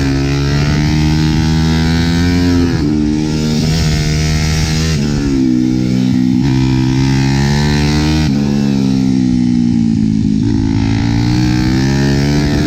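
IMR CUP pit bike's Daytona 190 cc single-cylinder four-stroke engine running hard on track, its pitch drifting up and down with several sudden jumps as gears are changed.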